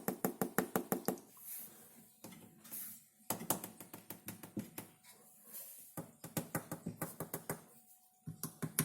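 Rapid taps on a Hotpoint dishwasher's plastic door safety switch, about eight a second, in three short runs. The quick, light clicks show that the switch is plastic, not metal.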